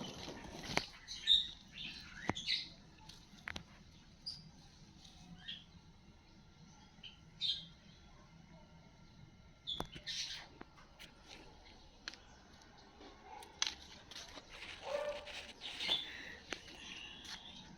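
Small birds chirping now and then in short calls, with a few sharp clicks and light rustles between them.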